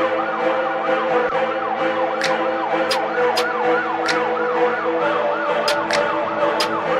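Siren in a fast, repeating yelp, its pitch rising and falling about three times a second over a steady hum, with a few sharp clicks scattered through it.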